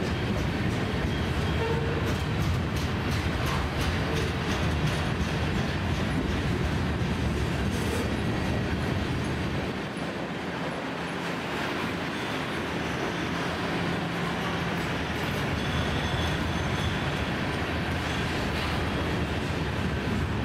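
A freight train's cars rolling steadily past: tank cars, centerbeam flatcars loaded with lumber and covered hoppers, their wheels rumbling on the rails. There are rapid clicks through the first half.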